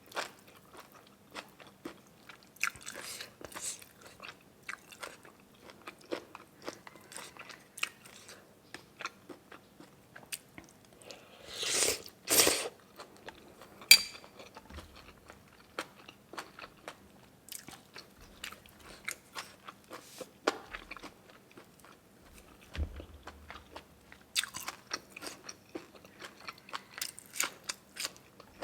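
Close-miked eating of noodle soup: steady chewing and mouth clicks throughout. About twelve seconds in there is a louder, longer noisy sound twice in quick succession, then a sharp click.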